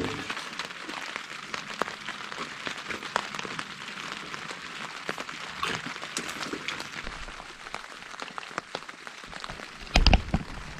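Rain pattering steadily on a canopy overhead, with many small scattered drip ticks. A loud thump about ten seconds in.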